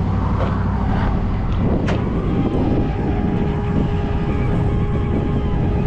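Tow truck engine running steadily under the winch as it drags a pickup sideways by a wheel. A sharp click comes just under two seconds in, and a steady whine joins about half a second later and holds.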